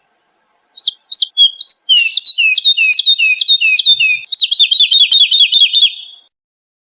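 Woodlark singing one song phrase: a run of repeated falling notes that speeds up about four seconds in, then stops shortly before the end.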